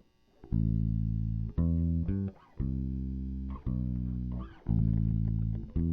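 Instrumental song intro: a run of low plucked-string notes, each struck sharply and left ringing for up to about a second before the next.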